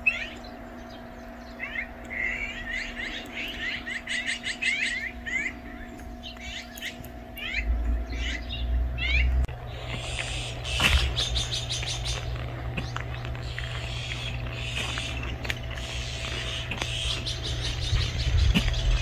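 Small birds chirping in quick runs of short falling notes, over a faint steady hum, with a low rumble coming in about eight seconds in.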